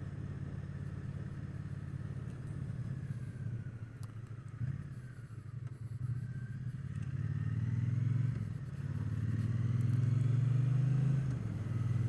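Triumph Bonneville T120's 1200 cc parallel-twin engine running while the bike is ridden along, easing off partway through, then pulling harder twice, with a brief dip in the note between the two pulls.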